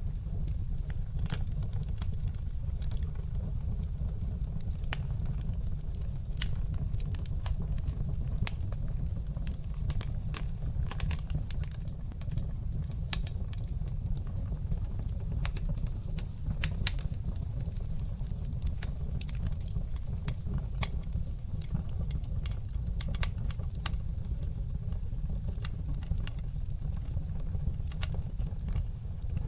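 Wood fire burning in a fireplace: irregular sharp crackles and pops over a steady low rumble of the flames, with two louder pops a little past the middle.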